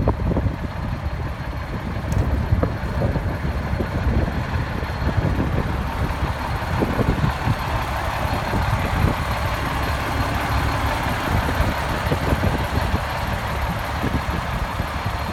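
Peterbilt 378 water truck's diesel engine idling steadily.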